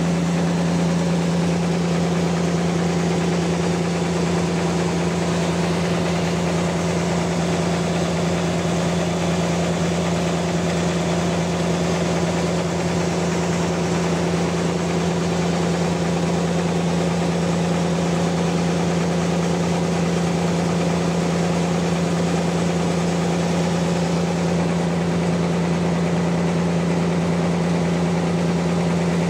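Sawmill machinery running steadily: a constant, even hum with a strong single low tone that does not change pitch or stop.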